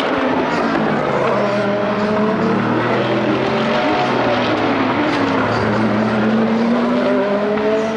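Several sports-prototype and GT race car engines running hard at once, their pitches rising and falling against each other.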